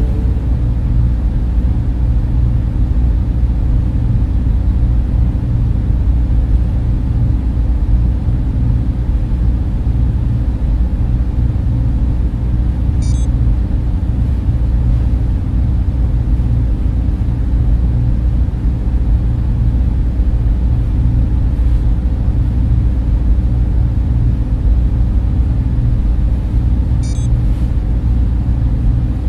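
Server room cooling fans running in a steady, unbroken drone, heaviest in a low rumble.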